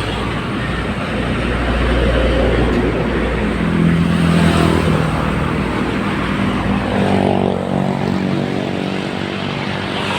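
Heavy truck engine running loud, with a deep steady hum; its pitch swells about halfway through, then bends up and down near the end.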